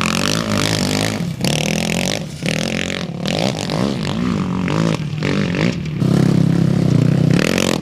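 Off-road racing motorcycle engines revving, the pitch climbing and falling through several throttle bursts with brief dips between them, louder again from about six seconds in.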